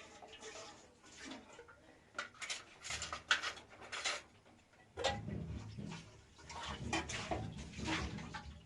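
Irregular clattering and knocking of kitchen things such as pots and dishes being handled, with a low rumble joining in about five seconds in.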